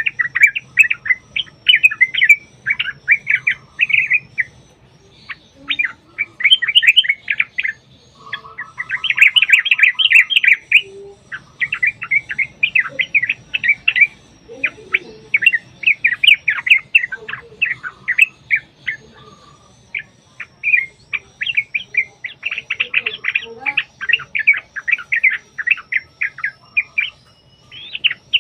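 Yellow-vented bulbuls singing in long, rapid chattering runs of bubbly notes, burst after burst with only short breaks, the 'ropel' song used as a lure to set other bulbuls singing.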